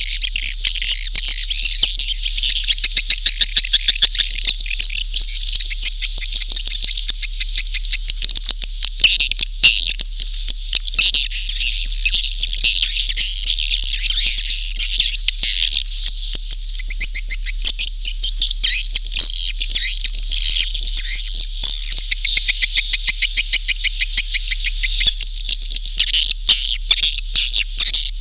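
Recorded calls of edible-nest swiftlets: a dense, unbroken chorus of rapid high chirps and clicking trills. It is a swiftlet lure recording of the kind played in swiftlet houses to draw the birds in to roost and nest.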